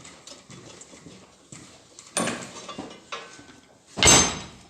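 Metal engine parts from a cylinder head being handled and set down on a hard surface: light clicks, a sharp knock about two seconds in, and a loud metallic clatter near the end.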